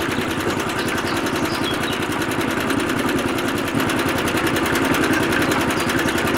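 A small electric motor running steadily with a fast, even buzz.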